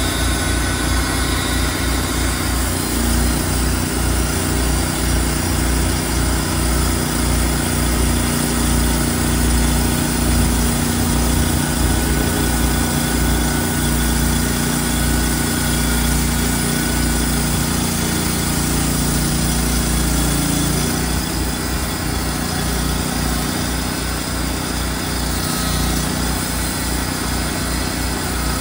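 Small gas engine of a portable sawmill running steadily under load as the mill makes a pass through a large cherry log. The engine note drops a little about twenty seconds in.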